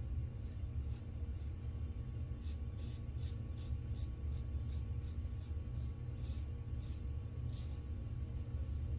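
Razor strokes scraping stubble on a final pass against the grain: a string of short, sharp scrapes at an uneven pace, over a steady low hum.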